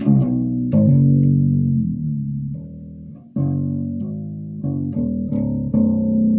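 Six-string fretless bass guitar played solo: a run of plucked low notes, several of them sliding in pitch, with a note left to ring out and fade before playing resumes about three seconds in.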